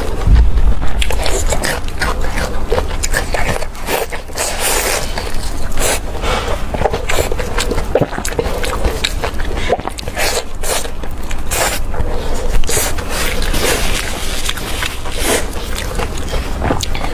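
Close-miked mukbang eating: a person chewing and smacking food, with many short wet clicks throughout.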